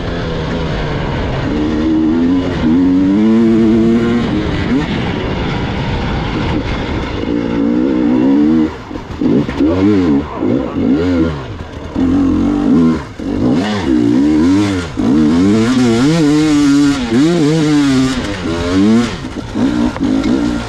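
Gas Gas EX 300 two-stroke enduro motorcycle engine revving up and down as it is ridden off-road, the throttle opened and chopped again and again, with several short drops in the second half.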